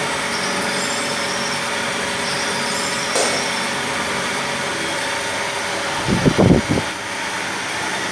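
CNC screw-threading machine running with a steady mechanical hum, a single click about three seconds in and a short cluster of low thumps about six seconds in.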